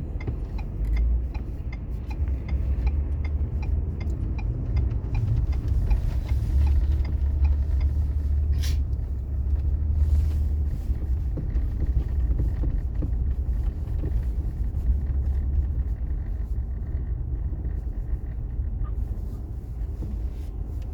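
Steady low rumble of a car driving, heard inside the cabin. A regular ticking, about two a second, runs through the first five seconds, and there is one short sharp sound about nine seconds in.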